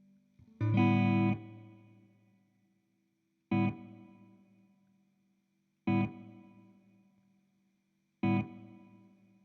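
Electric guitar (a Fender Jazzmaster Modern Player) through a Nux Time Core delay pedal: a chord sounds a little under a second in and rings out, then the same chord comes again three times, evenly spaced about two and a half seconds apart, each fading away.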